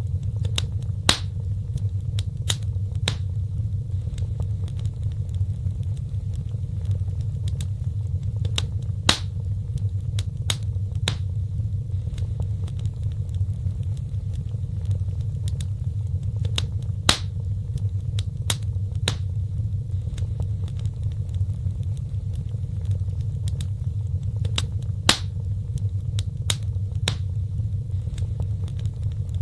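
Wood fire crackling: a steady low rumble of burning with scattered sharp pops and snaps. The same pattern of pops comes round about every eight seconds, as in a looped fire track.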